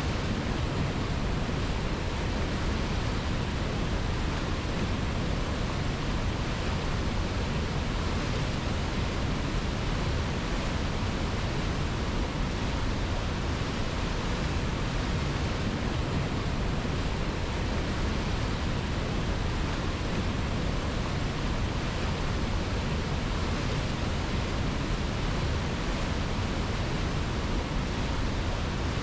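Steady rushing of river water, an even hiss without breaks or changes.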